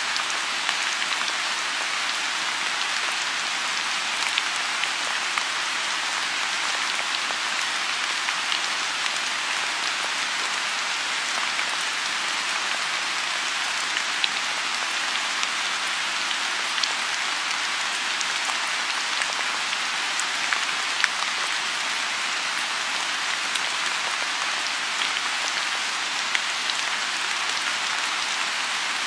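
Steady rain falling on a lotus pond: an even hiss of rainfall with many sharp individual drops ticking through it.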